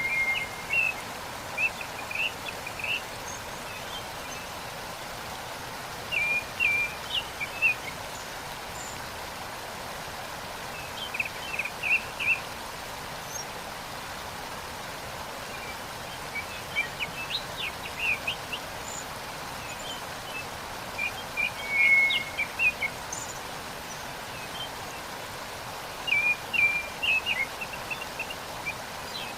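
Steady rush of a waterfall, with a songbird singing short chirping phrases about every four to five seconds over it.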